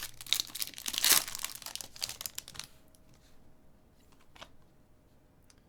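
Plastic trading-card pack wrapper being torn open and crinkled for about two and a half seconds, followed by a few faint clicks.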